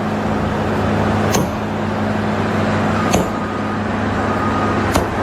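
A steady low engine hum, with three sharp clacks roughly every two seconds.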